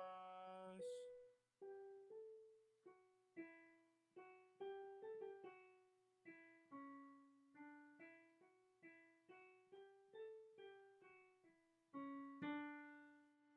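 Quiet solo piano: single notes struck one at a time, each ringing and dying away, closing on a chord near the end. A held sung note cuts off just under a second in.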